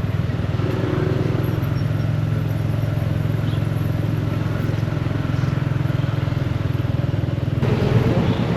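Small motorcycle engine running steadily under way, with road and wind noise, heard from the motorbike taxi's pillion seat. Near the end it grows a little louder as the engine note rises.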